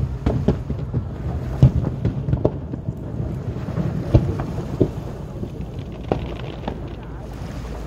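Aerial fireworks shells bursting in a rapid, irregular string of booms, about one or two a second, over a constant low rumble, heard through a smartphone's microphone.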